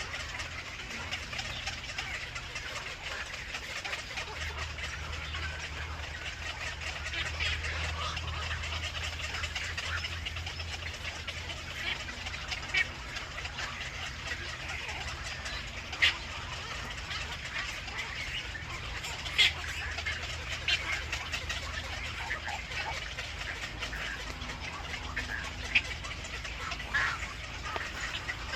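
Outdoor bird ambience: a steady hiss and low hum, with a few short, sharp bird calls scattered through, most of them in the second half.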